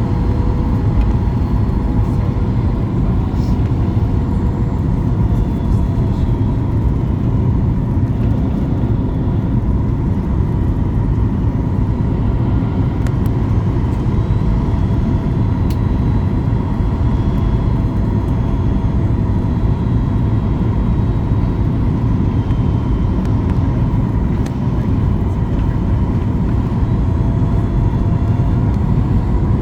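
Steady roar of an airliner cabin in flight: engine and airflow noise, deep and even, with a faint steady whine running through it.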